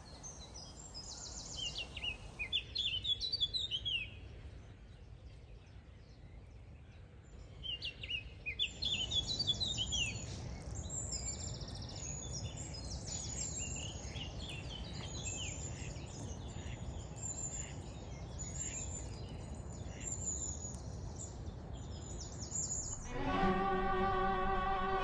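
Several songbirds singing in repeated chirping and trilling phrases over a steady low background rumble. Near the end, a violin-led music track comes in.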